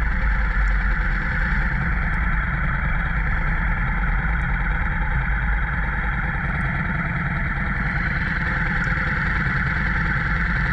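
Motorcycle engine running steadily under way, with constant road and wind noise and no change in engine speed.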